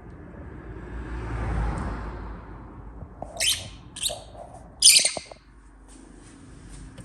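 Rosy-faced lovebird giving three short, shrill chirps a little over half a second apart, the last the loudest, after a soft rushing noise in the first two seconds.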